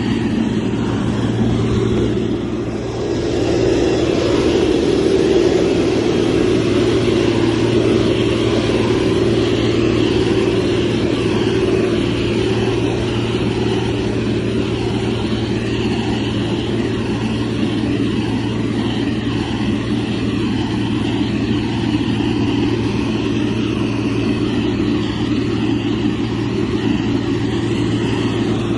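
Motor grader's diesel engine running steadily as the machine works, dipping briefly about two and a half seconds in before picking up again.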